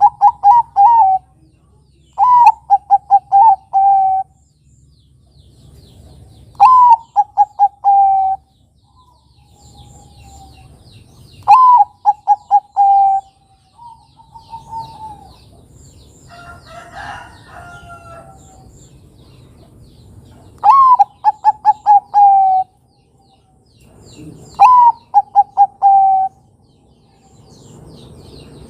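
Zebra dove (perkutut) cooing: six phrases, each an upswept opening note followed by a quick run of short coos, with pauses between them. A rougher call from another bird comes in the middle, with faint chirping behind.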